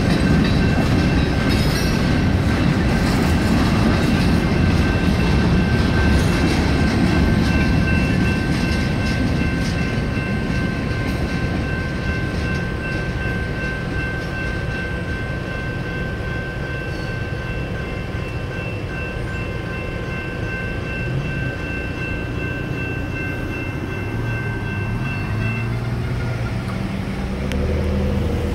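Freight cars rolling past over the rails, loud for the first several seconds and then fading as the end of the train clears. Through it the crossing's General Signals Type 2 electronic bells ring steadily until they cut off a few seconds before the end, when car engines start pulling away.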